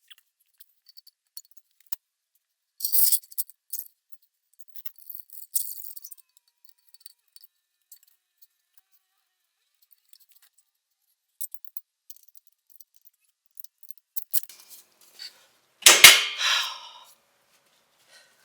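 Scattered light metallic clinks and jingles of tools and bolt hardware being handled while fitting a shock absorber bolt, with one loud metal clank and brief ring about sixteen seconds in.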